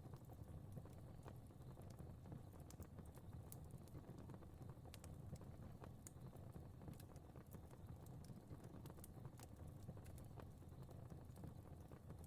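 Fire crackling faintly: irregular sharp snaps and pops, several a second, over a steady low rumble of burning.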